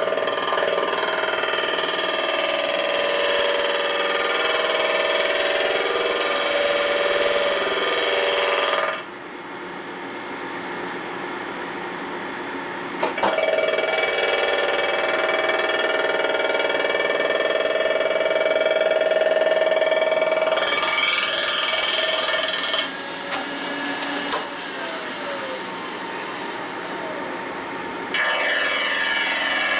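A skimming cutter taking a skim cut across a metal part, with a loud, high-pitched ringing screech while it is in the cut. The sound drops to a quieter running sound twice, from about 9 to 13 seconds and from about 21 to 28 seconds, when the cutter is not cutting.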